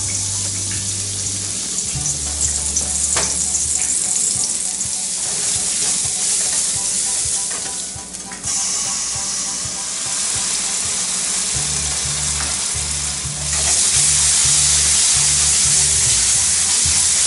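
Chicken and cauliflower stir fry sizzling in a hot pan as it is stir-fried. The sizzle dips briefly around the middle, then grows louder and fuller about three-quarters of the way through.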